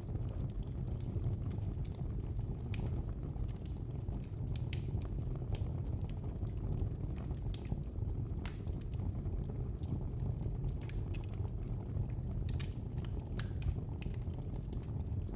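Wood fire crackling: a steady low rumble of burning with irregular sharp pops and snaps scattered throughout.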